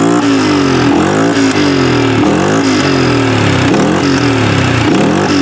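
CF Moto 500 ATV engine running after being swamped in water, its throttle blipped over and over so the engine note dips and climbs roughly once or twice a second.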